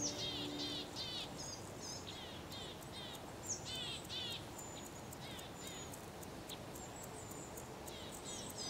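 Small songbirds chirping and calling many times in quick succession over a steady outdoor hiss. A held music note fades out about a second in.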